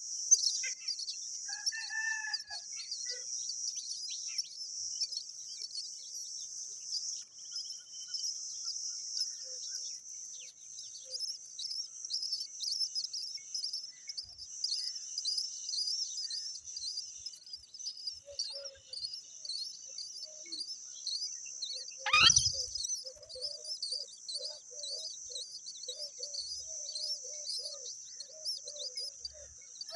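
Birds calling: dense, continuous high-pitched chirping, with one loud call sweeping steeply downward about two-thirds of the way through. From then on, short low calls repeat about three times a second, like a hen clucking.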